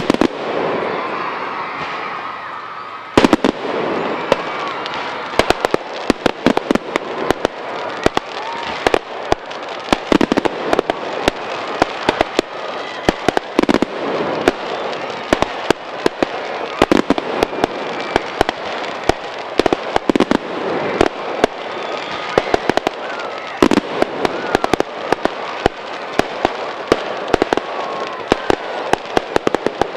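Fireworks display: a loud bang just after the start and another about three seconds in, then a continuous rapid crackle of many small reports with louder bangs scattered through it.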